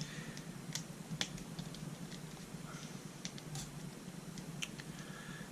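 Faint, scattered clicks and ticks of a small hand tool and plastic RC parts being handled as a screw on an RC car's wheelie bar is tightened, over a low steady hum.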